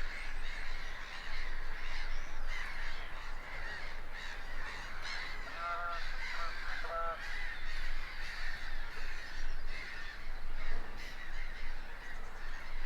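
Many wild birds calling over a lake, a steady mix of chirps with three short harsh calls about six to seven seconds in.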